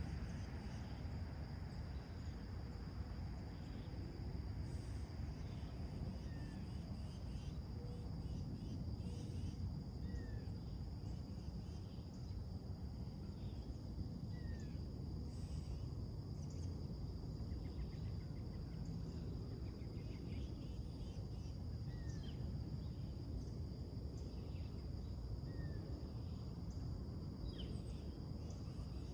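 Morning outdoor soundscape: songbirds chirping now and then, one repeating a short rising note every few seconds, over a continuous high-pitched insect drone and a steady low background rumble.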